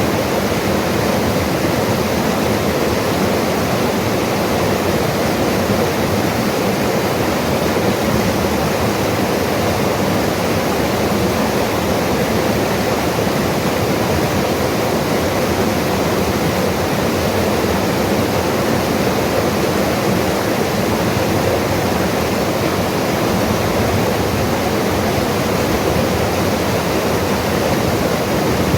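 Mountain river rushing steadily over rocks, a dense, unbroken water noise.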